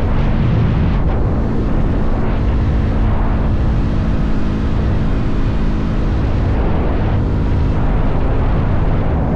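Motorcycle engine running at a steady cruise, its note holding level. Heavy wind rushes and rumbles over the microphone.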